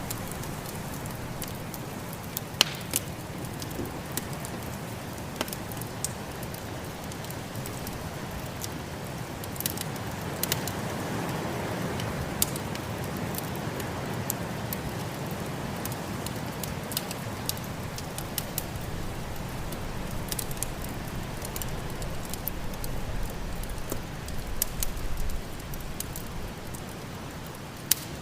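Wood fire crackling in a fireplace, with frequent sharp pops, over a steady low rush of snowstorm wind that swells about ten seconds in.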